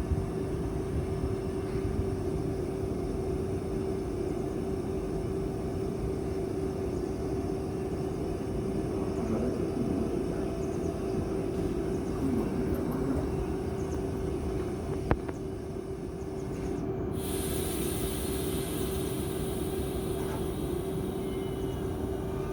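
RER C electric train heard close by, a steady rumble with a constant electrical hum. There is a single sharp click about two-thirds of the way through, and a steady high hiss starts a little later.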